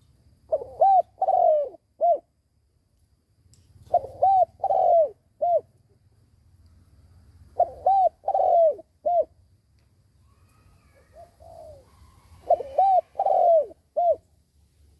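Spotted dove decoy cooing: four phrases, each of three or four low, rounded coos that swell and fall, repeated every three to four seconds.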